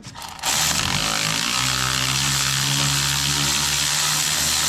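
A cordless power tool running steadily with a motor whine while backing out a bolt. It starts about half a second in.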